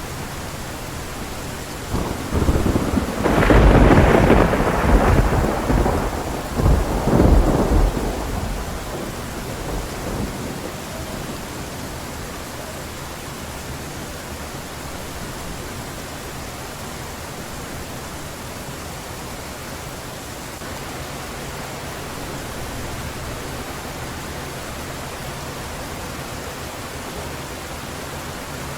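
Heavy steady rain, with a loud thunderclap about two seconds in that rumbles on and dies away by about ten seconds, leaving only the hiss of the downpour.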